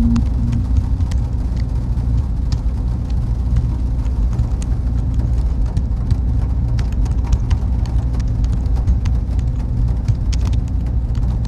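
Server room ambience: a steady, low machine and fan hum with a faint constant tone above it and scattered light ticks.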